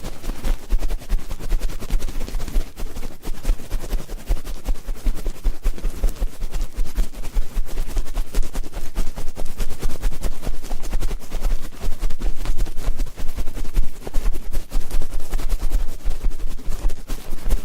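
Ear-cleaning ASMR scratching and rustling right on the microphone: a dense, continuous crackle with irregular low thumps from contact with the mic.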